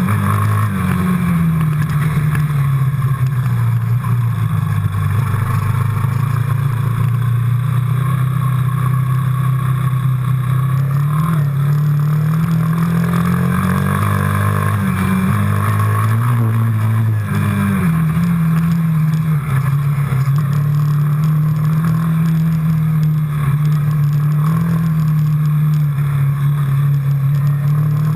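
Quad bike engine running under way, its note rising and falling with the throttle. It climbs for a few seconds about halfway through, then drops back to a steadier pitch.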